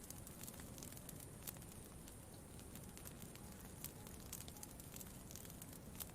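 Campfire crackling faintly, with irregular sharp pops and snaps over a soft, steady low background noise.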